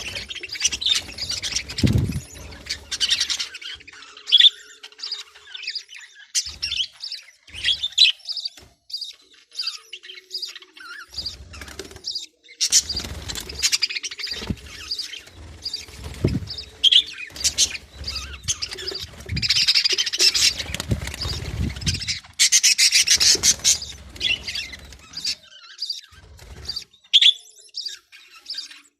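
Australian parrots (budgerigars) chirping and chattering in many short, high calls, with a few longer, harsher bursts of squawking partway through. Low knocks and rustles come and go underneath.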